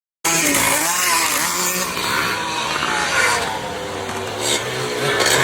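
Vintage motocross bikes racing, their engines revving up and down in pitch. The sound cuts in abruptly just after the start.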